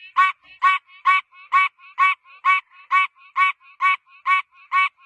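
An animal's repeated honking calls, evenly spaced at about two a second, each loud call led in by a faint softer note.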